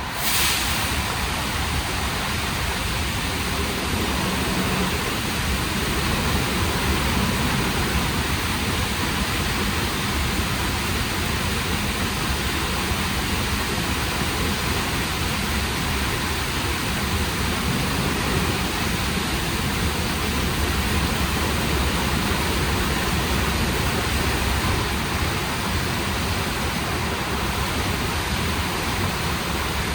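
WashTec SoftCare² Takt car wash spraying water jets onto a car: a loud, steady rushing hiss that starts abruptly.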